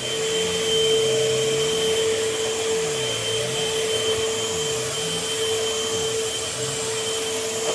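Eureka vacuum cleaner running steadily over a bed, its motor giving a constant whine over a steady rush of suction, picking up debris from the bedding.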